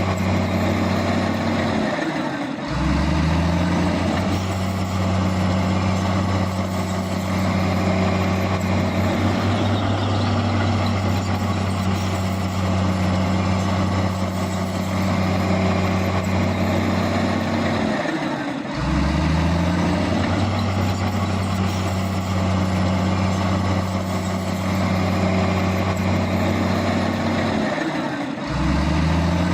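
Heavy diesel engine running steadily under load. Three times it drops briefly in revs and then climbs back up: about two seconds in, around eighteen seconds, and near the end.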